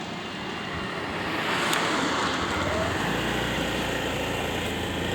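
Motorcycle riding through road traffic: wind and traffic noise, with a steady low engine hum from about three seconds in.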